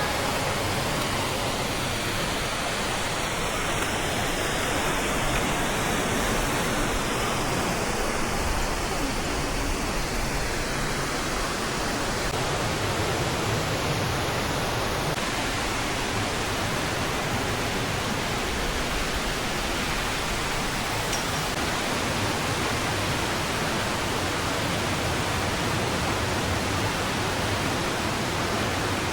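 Steady rushing of fast-flowing mountain stream water, an even noise with no breaks.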